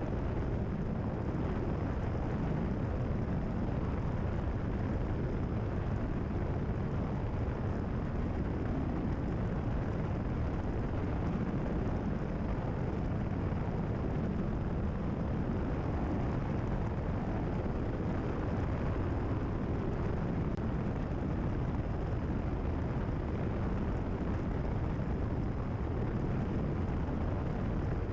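Cessna 172RG's Lycoming O-360 four-cylinder engine and propeller running steadily at cruise power, heard as a constant low drone with wind noise inside the cabin.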